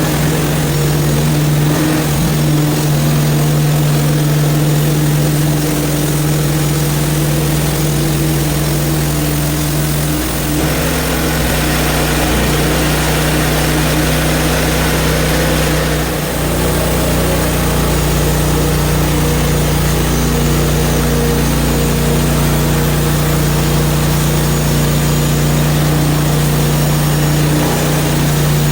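Portable bandsaw mill's gas engine running steadily under load as the blade saws through a frozen log, with a brighter cutting hiss between about ten and sixteen seconds in.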